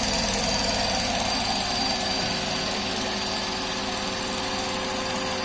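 LEGO flathead vacuum engine running steadily on suction from a vacuum cleaner: a fast, even chatter of the plastic engine over the vacuum's steady high whine.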